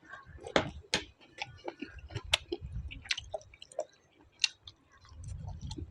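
A person chewing food close to the microphone: irregular crunchy clicks and crackles with wet mouth sounds.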